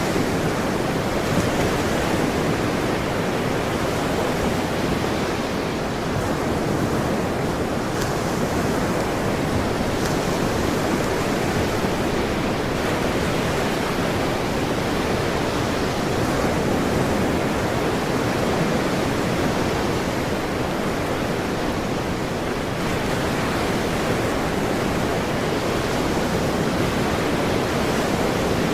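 Ocean surf: a steady, even rush of waves with only slight slow rises and falls.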